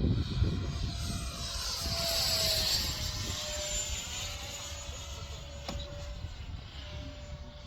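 80 mm electric ducted fan of a model F16 jet in flight: a steady high whine over a rush of air, loudest about two seconds in as it passes nearest, then easing off.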